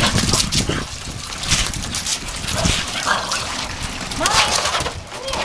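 Small dogs barking during play.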